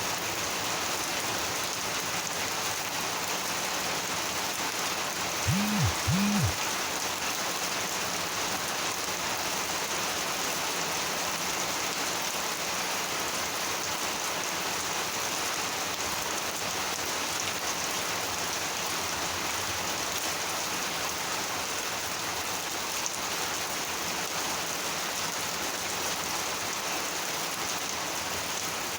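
Steady monsoon rain falling, an even hiss. About six seconds in, two short low-pitched sounds in quick succession stand out over the rain.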